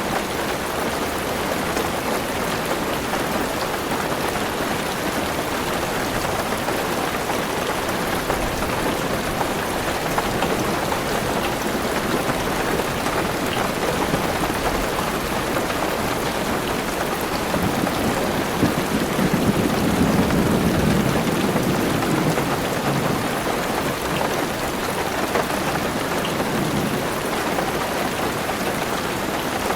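Heavy rain pattering steadily on a car roof and windows. A low roll of thunder swells up about two-thirds of the way through and fades over several seconds.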